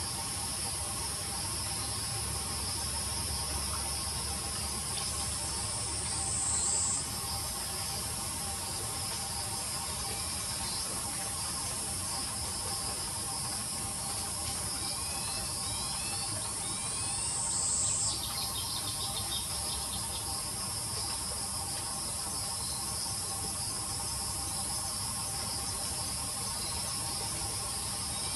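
A loud, steady, high-pitched insect chorus. Twice, about eleven seconds apart, the song swells, slides down in pitch and cuts off suddenly.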